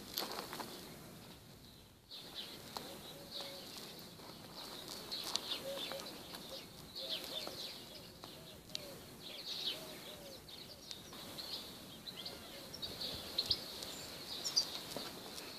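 Small birds chirping, many short high calls one after another, over a faint steady background hiss.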